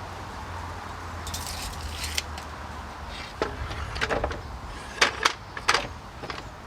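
Scattered light clicks, taps and short rattles of reclaimed decking boards and a measuring tool being handled while the boards are marked out, over a low steady hum.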